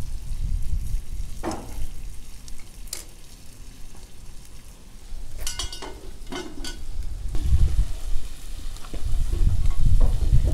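Food frying and sizzling in a kazan, a cast-iron cauldron for plov, with a few scrapes and clinks from a utensil stirring it in the middle. A low rumble runs underneath and grows louder near the end.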